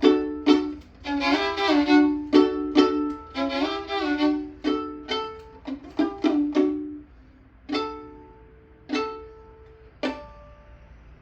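A violin playing a slow phrase with vibrato and two-note chords, then slowing to three widely spaced short notes that ring and fade, the last one about ten seconds in.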